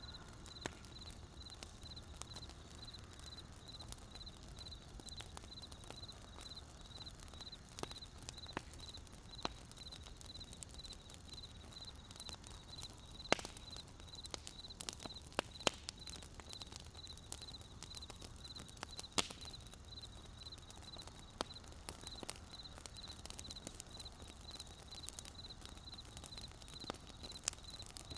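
Wood fire crackling: scattered sharp pops and snaps, a few louder ones in the middle, over a low steady rumble. A high, evenly pulsed chirping, about three pulses a second, goes on throughout.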